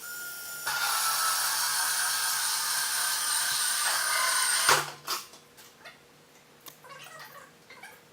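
A power drill runs at a steady high pitch for about four seconds, then stops with a sharp knock. Light clicks of handling follow.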